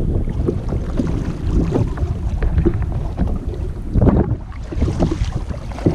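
Wind rumbling on the microphone, with short knocks and splashes of water from a kayak being paddled.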